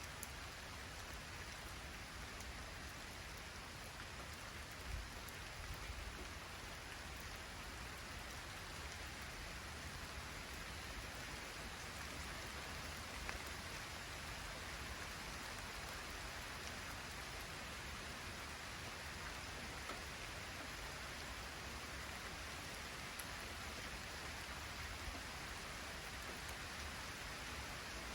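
Light rain falling steadily, with wind; a few single drops tick out louder now and then.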